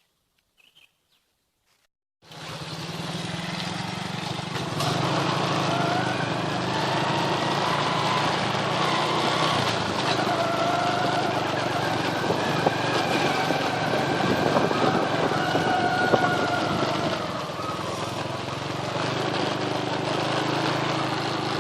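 Small motorcycle engine running under way, its pitch rising and falling with the throttle, starting suddenly about two seconds in after near silence.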